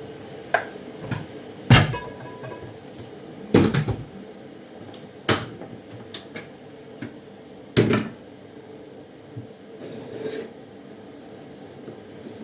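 Irregular kitchen clatter: about seven sharp knocks and clunks of cookware and utensils being handled, the loudest about two and three and a half seconds in.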